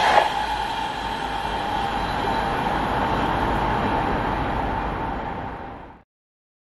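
Passenger train running past on the rails, a steady rumble of wheels on track with a faint high whine, after a brief clack just after the start. The noise fades and is gone about six seconds in.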